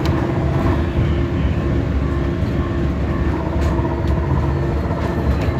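A 2012 Gillig hybrid bus in motion, heard from inside the cabin: a steady low rumble with a few held tones over it, the strange noise the rider noticed.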